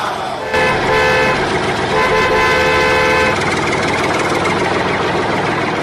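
A horn sounds twice in two held toots, over the steady running of a small motor.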